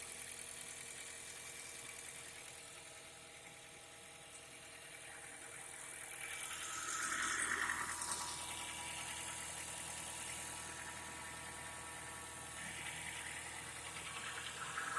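Honda Fit engine idling, growing louder twice, once about six to eight seconds in and again near the end, with a knock that the owner says comes in when the gas is pressed and goes away when it is released.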